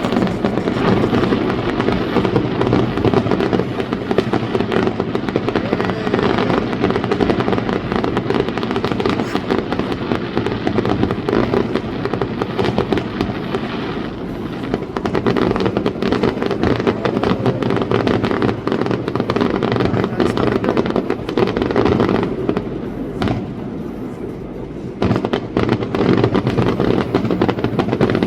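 A fireworks display going off in a continuous barrage of rapid bangs and crackling. It eases briefly about three-quarters of the way through, then picks up again.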